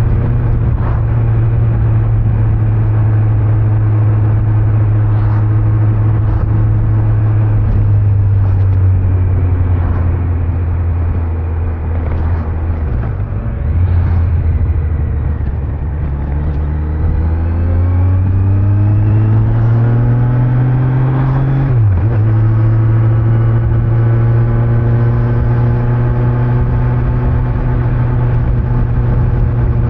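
Kawasaki Z900's inline-four engine on its stock exhaust, heard while riding. It cruises steadily, eases off, then pulls with rising revs before a sudden drop in pitch about two-thirds of the way through, an upshift, and settles back to a steady cruise.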